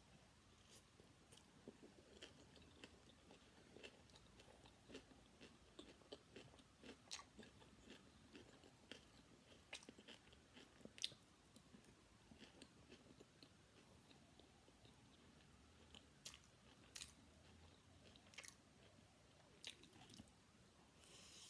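Faint close-up chewing of a mouthful of vegetable fried rice: a string of soft, wet mouth clicks, thickest in the first half, with a few sharper clicks near the end.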